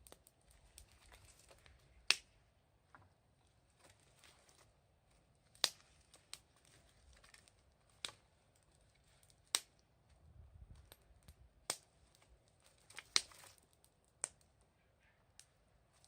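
Wood fire crackling: about eight sharp, separate pops at uneven intervals over a faint hiss.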